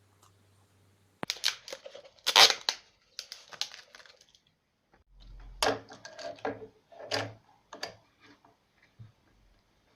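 Hand work at the woodworking bench: two bursts of short scraping and rustling strokes with sharp clicks, the first starting about a second in and the second after a brief pause, then a few faint ticks.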